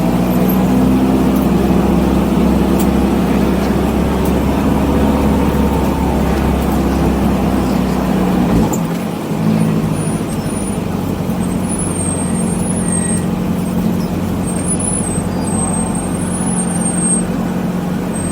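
1984 BMW 318i's four-cylinder engine running on track with its exhaust broken loose at the weld. The deep low drone drops away sharply about nine seconds in, then the engine runs steadily again. Short high squeals come and go through the second half.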